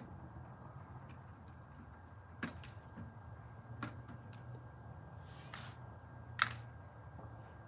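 A few scattered sharp clicks and light knocks over a low steady hum. The loudest click comes about six seconds in, just after a brief soft hiss.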